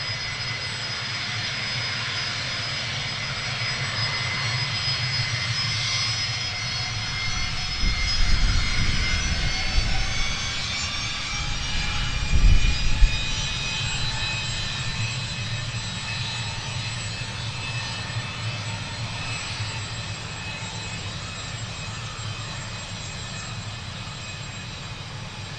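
Gulfstream G450's twin Rolls-Royce Tay turbofans running at low taxi power: a steady jet whine of several high tones over a low rumble. Two louder low rumbles come about eight and twelve seconds in, and the sound slowly fades toward the end.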